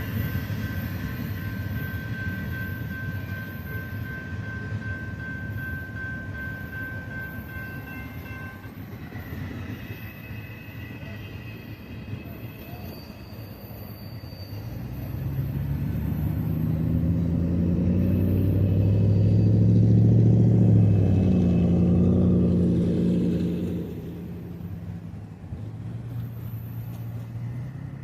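Intermodal freight train rolling past with a steady rumble. A few thin high tones hold through the first third. The rumble swells in the second half with a deep engine-like drone, then eases off.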